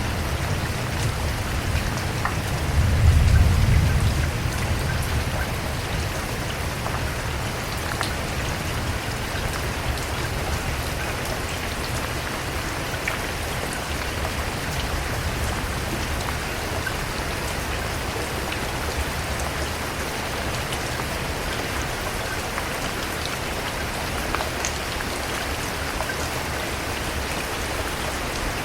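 Steady rain falling and pattering on a surface, with a brief low rumble about three seconds in.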